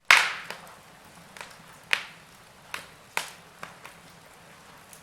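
Wood fire in a fireplace crackling. There is a loud sharp pop right at the start, then about seven smaller pops at irregular intervals over a faint steady hiss.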